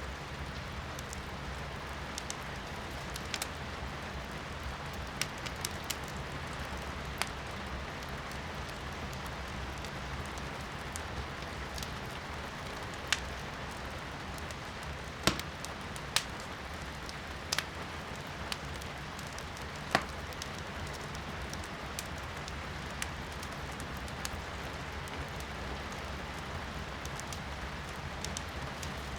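Firewood crackling in a fireplace, scattered sharp pops with a few louder ones in the middle, over a steady hiss of rain heard from inside the room.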